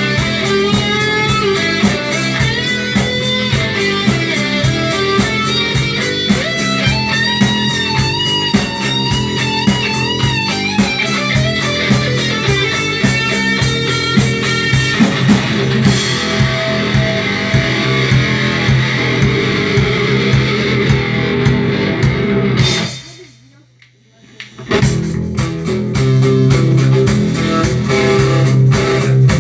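Guitar music with fast, steady strumming and a wavering melody line above it. It breaks off for about two seconds about three-quarters of the way in, then the strumming starts again.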